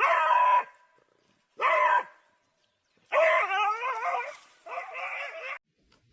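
A dog giving four drawn-out, pitched vocal calls. The third is the longest and wavers up and down in pitch. The last call cuts off suddenly near the end.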